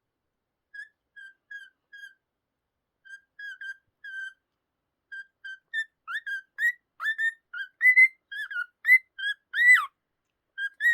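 A cockatiel singing: a string of short whistled notes, soft at first, growing louder about six seconds in, with notes that swoop up and down in pitch.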